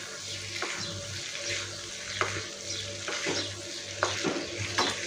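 Okra pieces sizzling in a non-stick kadai as they are stirred into onion-tomato masala with a spatula: a steady frying hiss with about six scrapes and taps of the spatula against the pan.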